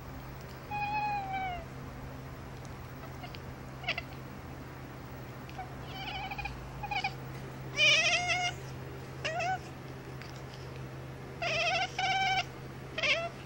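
Domestic cat meowing repeatedly: a longer falling meow about a second in, then a string of short meows, some in quick pairs, over a steady low hum.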